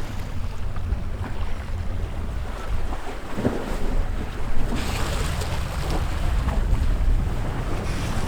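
Wind buffeting the microphone over the rush of sea water along a sailboat's hull, with more hissing splash from about halfway through.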